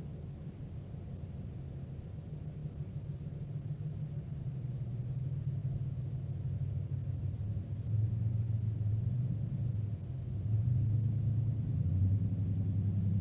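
A vehicle engine's low rumble and hum, growing gradually louder with a couple of steps up partway through, as a vehicle idles or creeps along at low speed.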